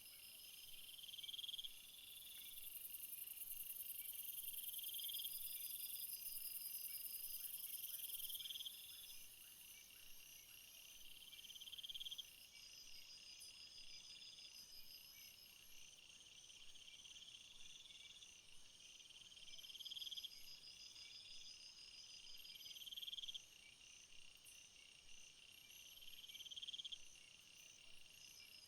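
A faint chorus of field insects chirping, several kinds overlapping. A buzzy phrase repeats every two to three seconds, a quicker pulsing trill runs above it, and a very high steady buzz stops about eight seconds in.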